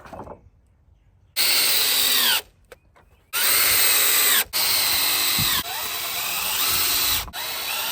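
Power drill driving screws to fasten a fence board: four or five runs of motor whine about a second each, starting about a second and a half in, the pitch dropping as the drill slows when a screw pulls tight.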